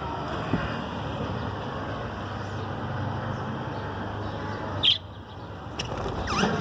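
Budgerigars chirping in short calls, the loudest a sharp chirp about five seconds in, over a steady low background rumble.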